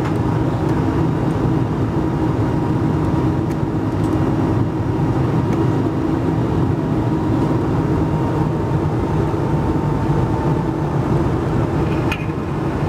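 Steady cabin noise of an Airbus A220-100 in flight: the drone of its Pratt & Whitney PW1500G geared turbofans and rushing air, with a constant low hum and a thin high tone that fades near the end.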